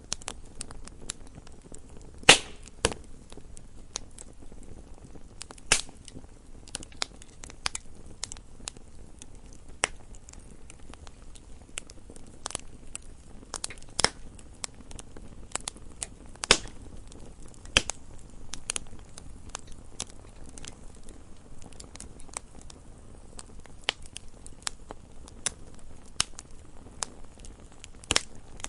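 Wood fire burning in a fireplace: logs crackling with irregular sharp pops, a few louder snaps standing out, over a soft steady hiss of the flames.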